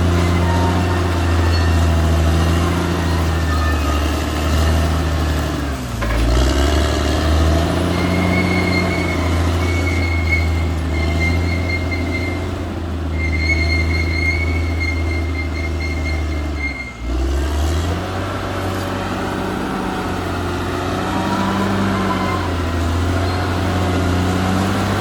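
Caterpillar D6R XL bulldozer's diesel engine running steadily under load, dipping briefly and recovering twice, about six and seventeen seconds in. A high whine comes and goes in the middle stretch.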